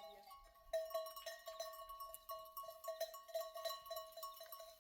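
Livestock bells on a flock of sheep clanking over and over at an uneven pace, several strikes a second, starting about a second in.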